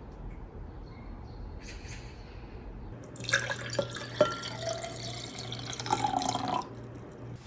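Water running from a tap into a sink for about three and a half seconds, starting about three seconds in, with a few sharp clinks, then shut off suddenly.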